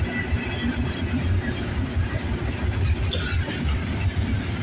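Freight train cars rolling past on the rails: a steady low rumble of steel wheels on track with light clatter.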